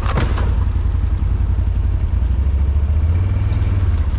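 ATV engine running steadily with a low throb, with a few light clicks near the start.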